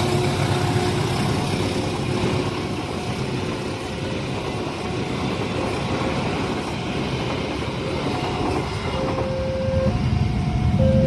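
A train rolling past over a level crossing, a steady rumble and rush of wheels on rails, with a few short steady tones near the end.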